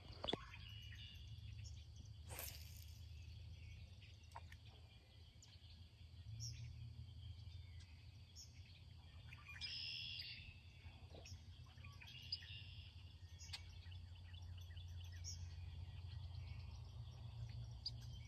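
Faint outdoor evening ambience: scattered short bird chirps and insect calls over a low steady rumble.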